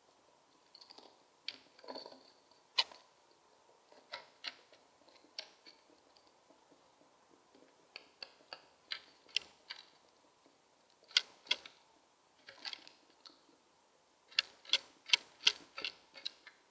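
Starling at close range making sharp, irregular clicks in short clusters, with a few brief high squeaky notes among them; the clicks come thickest near the end.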